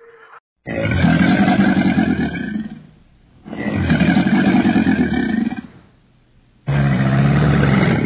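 Crocodile bellowing: three long, low calls of about two seconds each, with short pauses between them.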